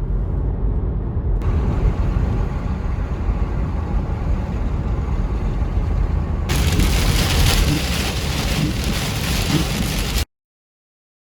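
Rainstorm: a loud steady rush of heavy rain with a deep rumble of wind buffeting the microphone. It is cut into pieces that change sound about a second and a half in and again after about six seconds, and it stops abruptly near the end.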